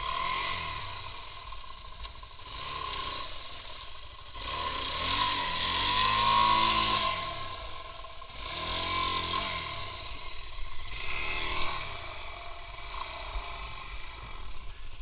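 A small engine revving up and down in several surges, its pitch climbing and falling each time, with the loudest rev about halfway through.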